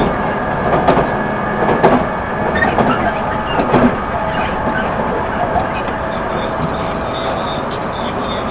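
Running sound heard inside the motor car of a JR 211 series 5000 electric multiple unit under way: a steady rumble of wheels on rail with a constant hum, and a few sharp clicks over the track in the first half.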